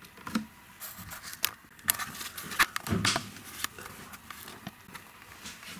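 Irregular clicks, knocks and light scrapes of metal hardware being handled and tightened: nuts being fastened to mount the speaker on a guitar amp's baffle board.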